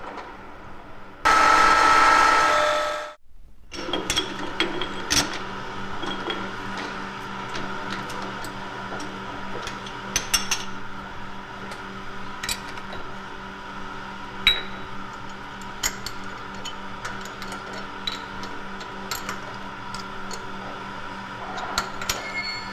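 A small electric motor running steadily, with scattered sharp clicks and clinks of small hard pieces knocking together. A loud noisy burst comes about a second in and cuts off abruptly before the motor sound starts.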